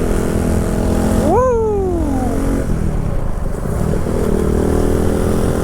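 Kawasaki Z125's small single-cylinder engine running under way through an aftermarket exhaust, revving up sharply once a little over a second in and then falling away slowly, over a steady low rumble.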